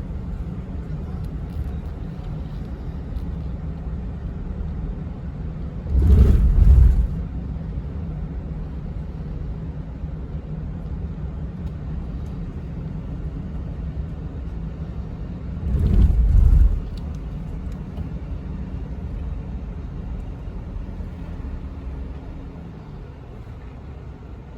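Car driving, with a steady low rumble of road and engine noise. Twice, about a quarter of the way in and again about two-thirds in, a louder low surge lasts about a second.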